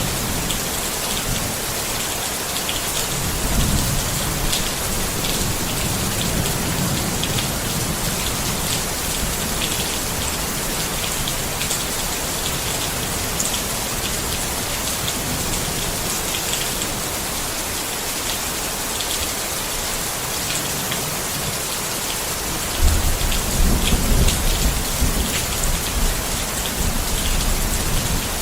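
Steady rain falling on a tent, with many fine drops pattering on the fabric. A low rumble of thunder swells a few seconds in, and a louder rumble sets in suddenly near the end.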